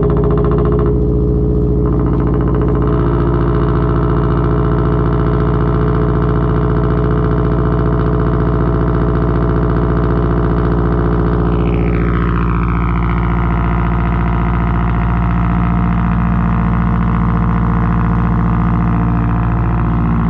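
2021 Subaru WRX STI's turbocharged 2.5-litre flat-four at cold-start fast idle, loud and steady through a straight-through 3-inch titanium catback with no resonator or muffler. A faint higher tone sweeps down and levels off about halfway through.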